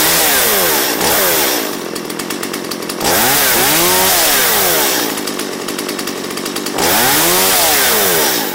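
Stihl MS170 small two-stroke chainsaw revved up and down several times with the throttle trigger, dropping back to a lower, ragged idle between revs, then fading out at the very end. With the choke off it keeps running only while the trigger is pulled, and it will not idle on its own.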